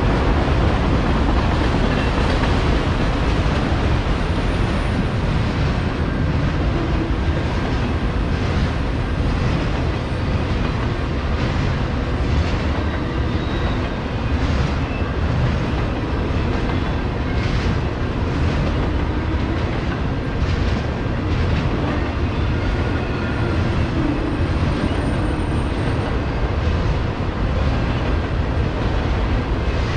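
Norfolk Southern autorack freight cars rolling past in a steady rumble, with wheels clicking over rail joints here and there.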